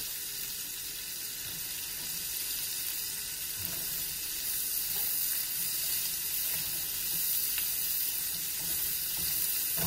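Sliced mushrooms and onion sizzling as they fry in fat in a non-stick wok: a steady hiss, with a silicone spatula stirring them now and then.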